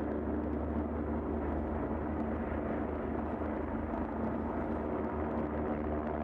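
Helicopter running steadily, a continuous low rotor and engine drone.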